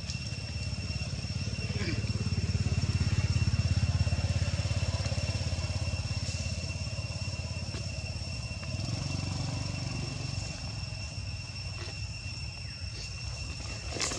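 A low, engine-like rumble that swells over the first few seconds and then eases off, over two steady high-pitched tones.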